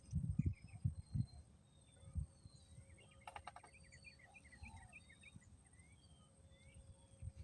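Small birds chirping and whistling in short, scattered notes, with a brief rattle among them, over a steady thin high insect whine. Low wind bumps on the microphone come in the first two seconds.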